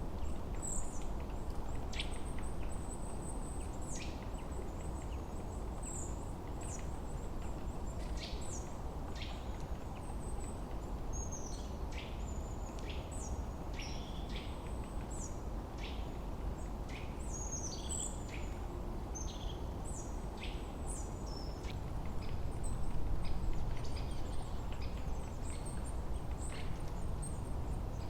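Forest birds chirping and calling in many short notes over a steady low rush of wind, which swells a little near the end.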